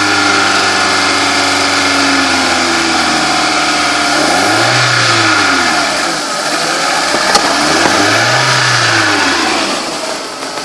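1999 Volkswagen New Beetle engine running and revved twice, each rev rising and falling back to idle within about a second and a half. The seller says the engine runs a little rough. A single sharp click comes a little after the first rev.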